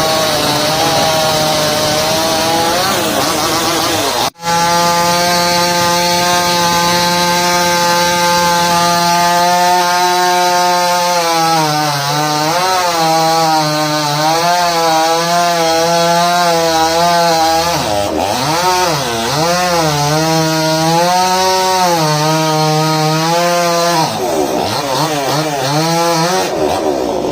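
New West two-stroke chainsaw running at high revs while cutting wood. The engine pitch holds steady at first, then repeatedly dips and recovers about once a second as the chain loads up in the cut. There is a momentary break in the sound about four seconds in.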